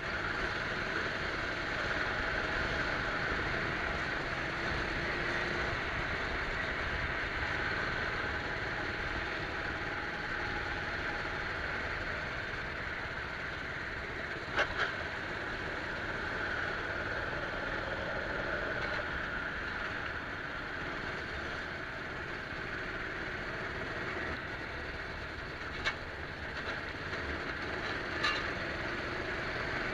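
Go-kart engine running, heard from an onboard camera, its pitch wavering up and down under a steady rushing noise. A few short sharp knocks come about halfway through and near the end.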